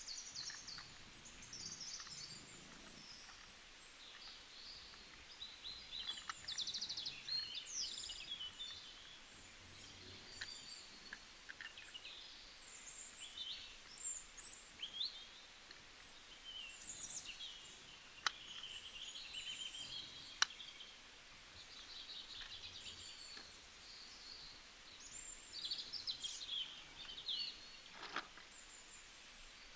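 Several small birds chirping and singing, short whistled calls and trills overlapping one another, with a few sharp clicks among them.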